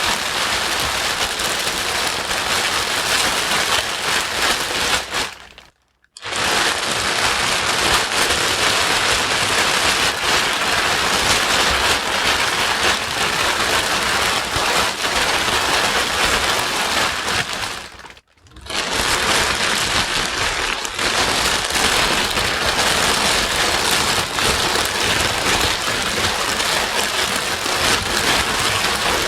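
White noise for soothing a crying baby: a steady, dense hiss much like heavy rain. It cuts out to near silence for a moment twice, about 6 seconds in and again about 18 seconds in, then carries on.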